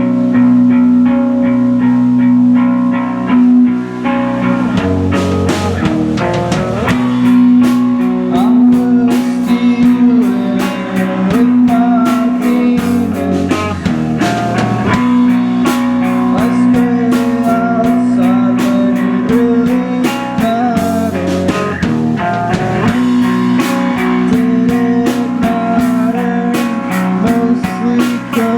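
Live rock band playing loud guitar music: electric guitar over a held low note, with drums and cymbals joining about five seconds in.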